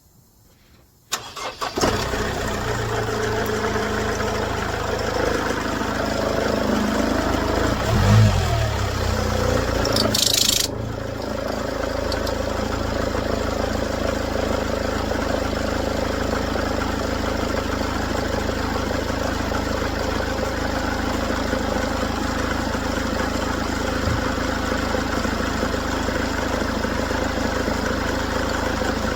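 Mercedes-Benz W204 C-Class engine starting about a second in, then running unevenly with a swell, a brief high-pitched noise about ten seconds in, and then a steady idle.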